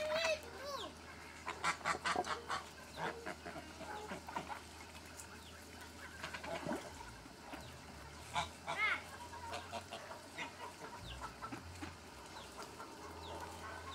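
Domestic poultry calling: short honking calls come in scattered bunches, several at a time, with quieter gaps between.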